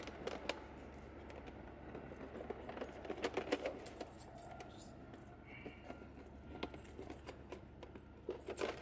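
Scattered metallic clinks and rattles of hand tools being handled, in clusters about three seconds in and near the end, over a steady low rumble of passing truck traffic.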